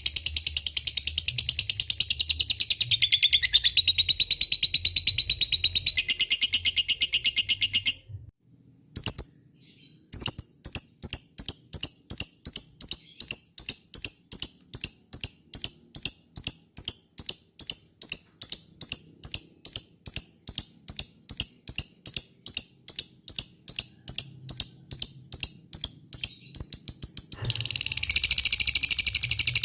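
Lovebirds calling: a long, shrill, rapid chattering trill (the 'ngekek'), which breaks off about eight seconds in. After a short pause comes a long run of sharp, evenly spaced chirps about three a second, and the dense chattering starts again near the end.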